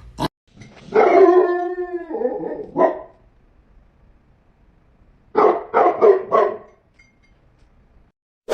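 A dog vocalizing: one long drawn-out pitched call about a second in, a short call after it, then four quick barks in a row a bit past the middle.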